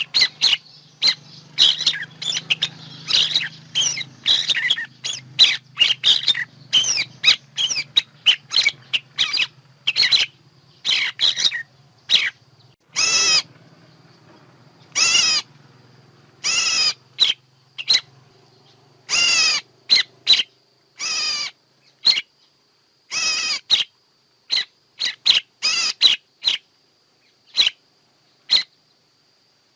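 A recording of songbird calls of the kind played as a lure for bird trapping: a quick run of many chirps at first, then single loud, rough calls about a second or two apart. A faint steady high whine runs underneath.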